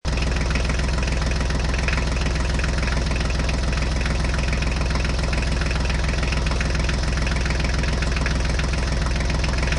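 Recorded tractor engine sound effect idling, a steady, even running sound with a fast regular clatter. It cuts in suddenly out of silence.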